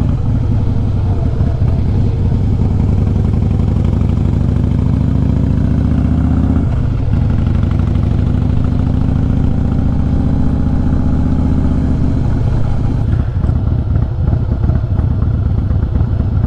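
Harley-Davidson Fat Boy S's Screaming Eagle 110 V-twin through a Vance & Hines Big Radius exhaust, pulling under throttle. The engine pitch climbs, drops suddenly at an upshift about seven seconds in, climbs again, then falls off as the throttle closes around twelve to thirteen seconds in.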